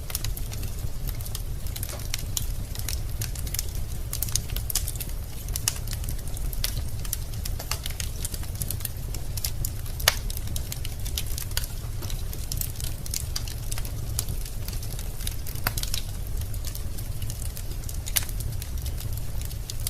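Wood logs burning in a fireplace, crackling with frequent irregular sharp pops over a steady low rumble. One louder pop comes about halfway through.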